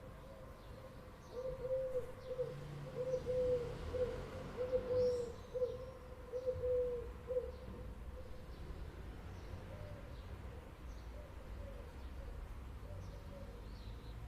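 A run of short, low, wavering animal calls, about a dozen in quick succession over some six seconds, then a few fainter ones, with faint high chirps over a steady low rumble.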